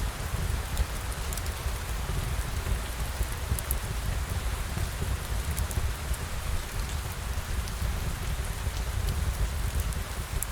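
Steady rain falling, with a deep low rumble beneath it and faint, scattered ticks.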